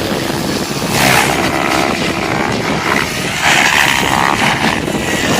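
SAB Goblin 700 electric RC helicopter in flight, its motor and rotor whine swelling and wavering in pitch about a second in and again from about three and a half seconds, with wind rumbling on the microphone.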